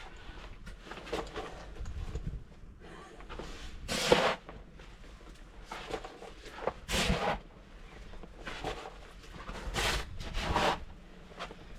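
Snow crunching and scraping in short, irregular bursts a second or two apart, as deep snow is worked by hand, the loudest about four and seven seconds in.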